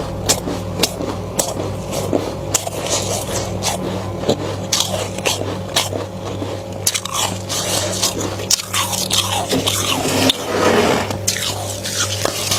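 Close-up biting and chewing of flaky freezer frost: a run of crisp crunches throughout, over a steady low hum.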